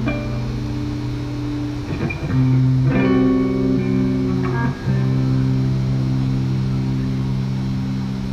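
Live band's closing guitar chords, struck anew three times and left to ring, with bass guitar underneath.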